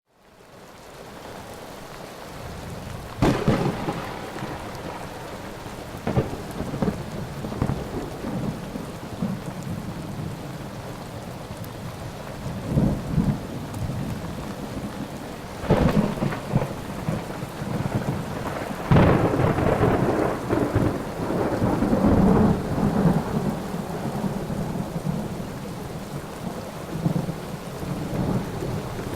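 Thunderstorm: steady heavy rain with repeated thunder. It fades in over the first couple of seconds, then sharp claps come about 3 s, 16 s and 19 s in, each rolling on into rumbling.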